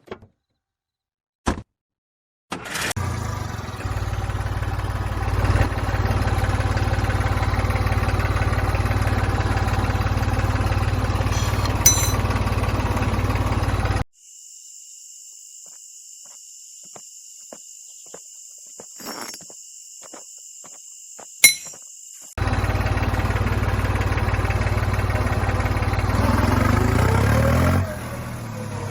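Small motor of a homemade mini tractor or pump model running steadily with a low hum. It cuts off abruptly about halfway through, leaving a quiet stretch with a thin steady whine and a few clicks, then runs again and drops in level near the end.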